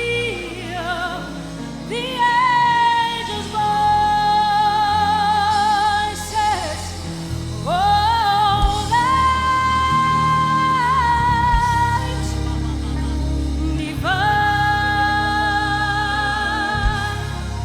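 Gospel music: a singer holding long notes with vibrato, each lasting a few seconds and sliding into the next pitch, over a band with a steady bass.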